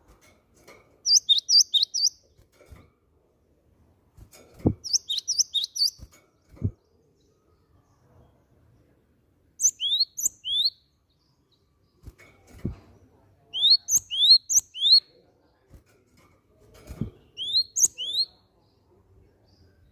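Gelatik batu (cinereous tit) singing: five bursts of quick, sharp chirping notes, each lasting about a second and spaced a few seconds apart. Between them come a few soft low knocks.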